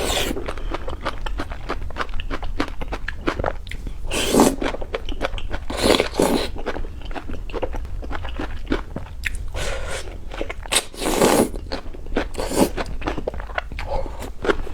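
Close-miked eating of crunchy food: a steady rapid crackle of chewing, broken by louder crunching bites about seven times.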